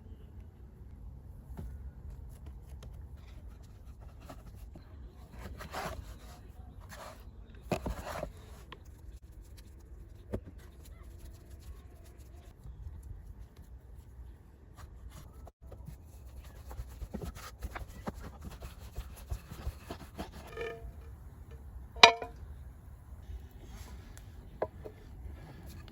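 Hands preparing food: light rubbing and scattered clicks and knocks over a low steady rumble, with one sharp knock about three-quarters of the way through.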